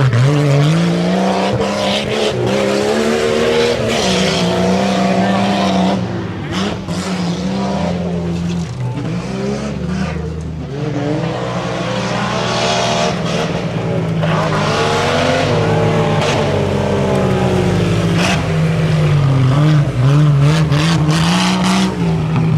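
Off-road 4x4 truck engine revving hard under load, its pitch climbing and dropping again and again as the throttle is worked over the obstacle course, with a few sharp knocks along the way.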